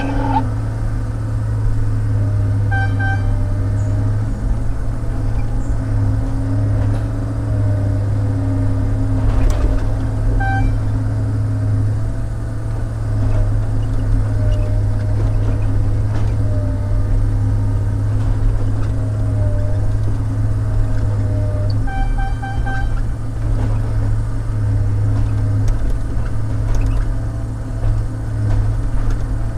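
Log loader's diesel engine running steadily under hydraulic load, with a wavering whine above the engine note. Short high squeaks break in a few times: a pair about three seconds in, one about ten seconds in, and a run of them around twenty-two seconds.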